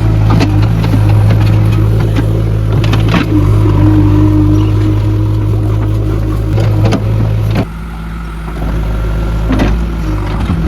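JCB backhoe loader's diesel engine running steadily under work, with several sharp metallic clanks. The engine drops to a lower level about two-thirds of the way in and rises again near the end.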